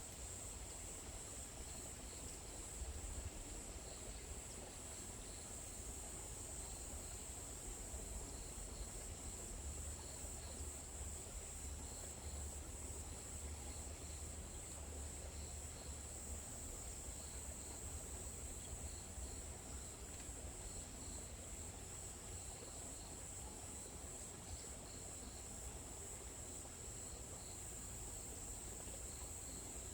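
Chorus of insects trilling in one continuous high-pitched drone, with faint regular chirps beneath it and a low rumble underneath.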